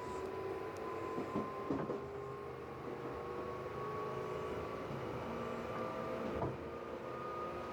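Tobu 8000-series electric train running, heard from inside the car: a steady whine from the motors and gears rising slowly in pitch as the train gathers speed, over wheel rumble, with a few knocks from the wheels on the rails.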